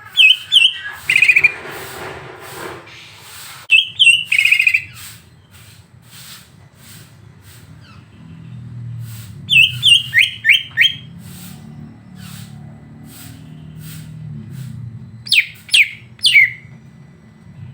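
A songbird calling in about five short bursts of sharp, quickly repeated high notes, with pauses between them, from a masteran tutor recording for the greater green leafbird (cucak ijo).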